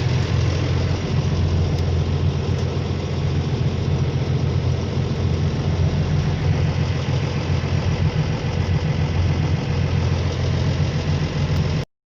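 Motorboat engine running steadily under way, a low drone with the rush of water and wind over it; the sound cuts off abruptly near the end.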